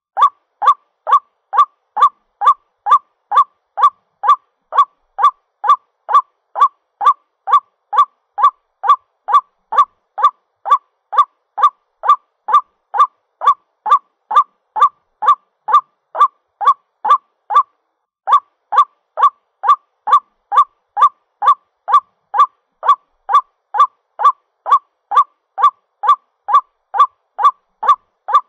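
White-breasted waterhen calling a rapid, unbroken string of short 'ruak' notes, about two a second, with one brief pause about two-thirds of the way through. It is the bird's call to its mate, played as a trapping lure.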